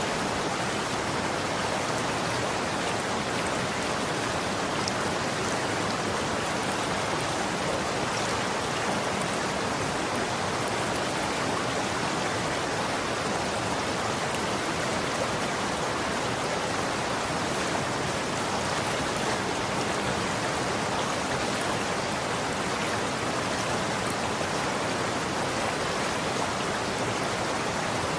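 Running water, a steady even rush with no change in level.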